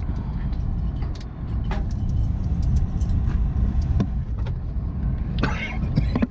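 Motor vehicle running, a steady low rumble of engine and road noise with a few light clicks. A brief louder noise comes near the end.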